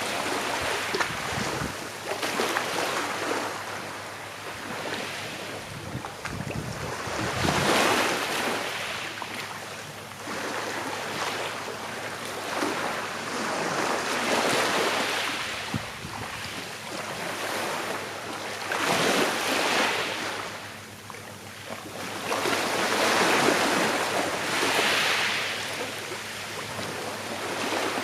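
Sea waves breaking and washing on a shore, each surge swelling and falling away every few seconds.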